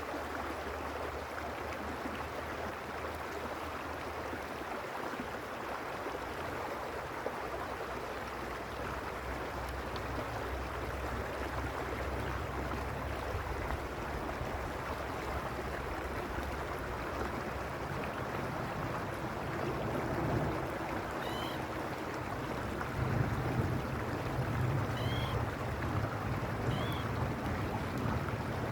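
Mountain stream running over stones, a steady rushing babble with a low rumble that swells from time to time. A few short, faint high chirps come in the last third.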